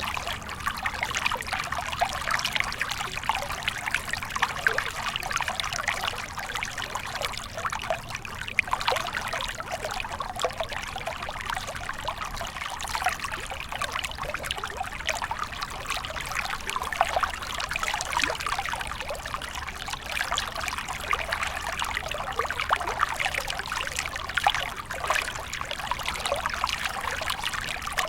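Stream water running and trickling steadily, a continuous splashing babble full of small quick plops.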